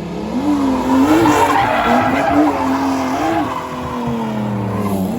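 Drift car sliding: the engine revs up and down several times while the rear tyres squeal against the pavement, the squeal loudest in the first three seconds.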